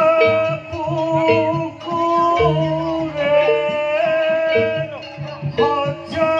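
Live Javanese jaranan music, instrumental between sung lines: a sustained, wavering melody over a struck note repeating about once a second and a low bass pattern.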